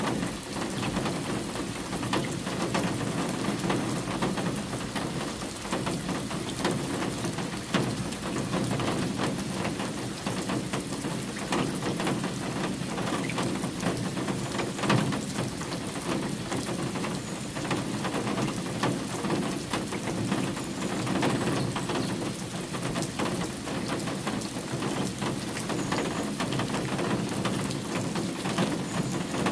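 Steady rain falling, with many separate drops ticking sharply on surfaces throughout.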